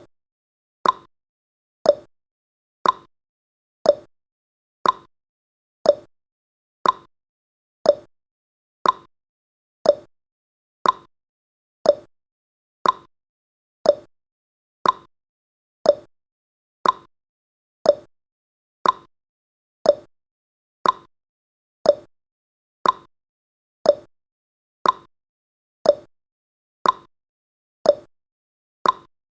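Countdown timer's ticking sound effect: one short, sharp tick each second, with silence between the ticks.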